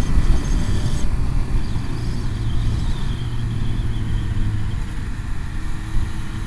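Motorcycle engine running steadily at road speed, heard under a heavy low rumble of wind on the microphone.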